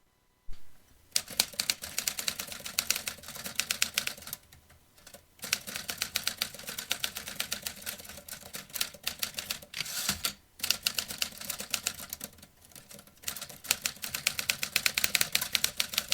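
Vintage manual typewriter being typed on: keys struck in quick, uneven runs of clicks, broken by a few short pauses.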